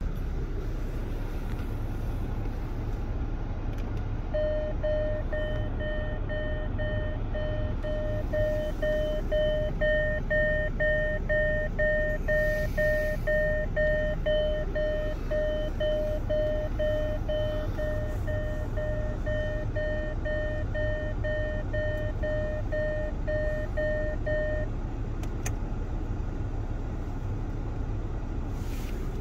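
Land Rover Discovery 2 engine idling, heard from inside the cabin. A few seconds in, an electronic dashboard beep starts repeating about twice a second and stops after some twenty seconds.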